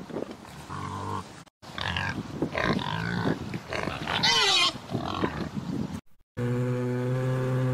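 Pigs grunting irregularly, with a short squeal that rises and falls about four seconds in. The sound cuts off abruptly twice, and after the second cut a single long, steady low-pitched animal call is held to the end.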